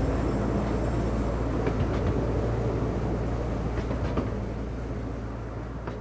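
Miniature railway carriages rolling past on the track: a steady low rumble with a few sharp wheel clicks, slowly fading.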